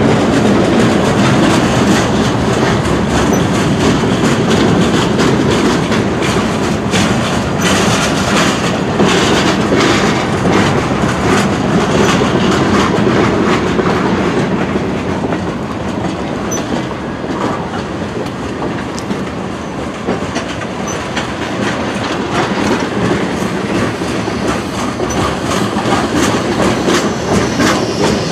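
Freight train cars rolling past at close range, a steady rumble with the wheels clicking over the rail joints.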